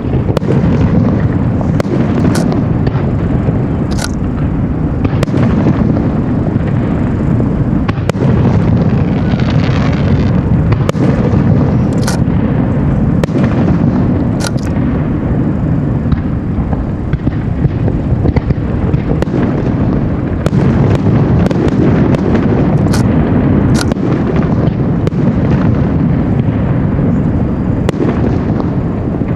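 Fireworks display: a dense, continuous rumble of shell bursts with many sharp crackles and pops on top.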